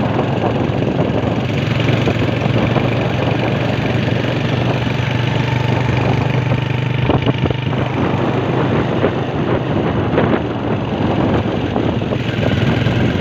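Small motorcycle engine running steadily while being ridden, with road and air noise over it.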